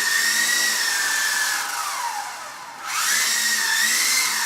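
Helimax AXE EZ RC helicopter's electric motor and rotors whining steadily at a high pitch. About two seconds in the whine slides down as the motor slows, then climbs back up to speed within a second.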